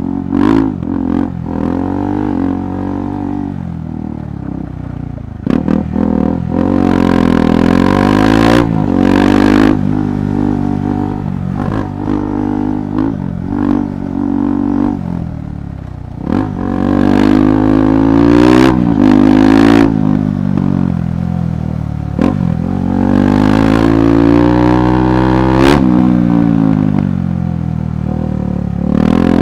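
KTM 390 Adventure Rally's single-cylinder engine being ridden off-road, its note rising and falling several times as the throttle is opened and eased off. Short knocks and rattles from rough ground are heard between the pulls.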